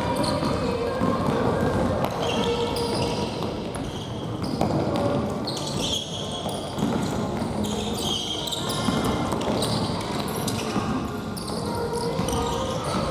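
Indoor futsal game on a gym court: ball kicks and bounces, quick footsteps and shoe squeaks on the floor, and players calling out, echoing in the hall.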